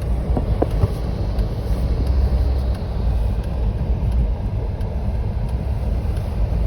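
Steady low rumble of a Jeep driving, engine and road noise heard from inside the cabin, with a few faint clicks in the first second.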